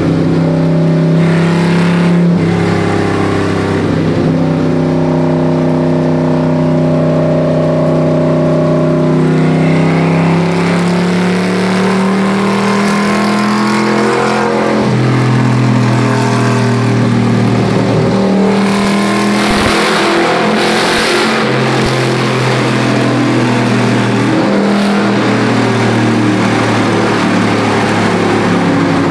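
A Ford Clevor V8 (Cleveland heads on a Windsor block) in a 1970 Mustang Fastback, running loud. Its engine speed holds steady for stretches, then rises and falls several times, with a harsher surge about twenty seconds in.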